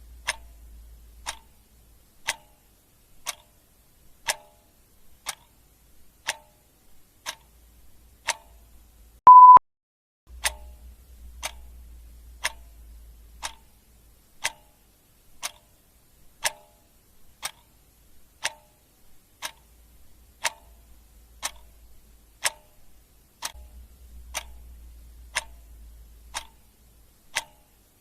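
Clock ticking steadily, about one tick a second. About nine seconds in a single short beep sounds, louder than the ticks.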